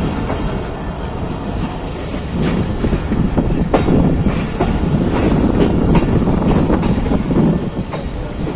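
Pakistan Railways passenger train running through a station yard, heard from the coach doorway: a steady rumble of wheels on rails with irregular sharp clacks as the wheels cross rail joints and points.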